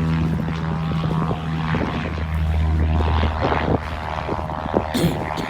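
Propeller aircraft engine running with a steady, low, even hum. The hum weakens about three and a half seconds in, leaving rougher noise with a few sharp knocks.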